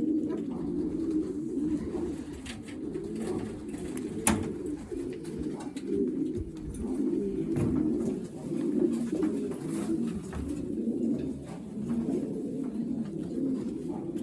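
Many racing pigeons cooing continuously, their overlapping low coos forming a steady warbling murmur, with a sharp click about four seconds in.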